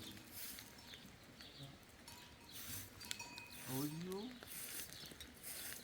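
A goat bleats once, a short call that rises in pitch, about four seconds in, over a steady outdoor hiss.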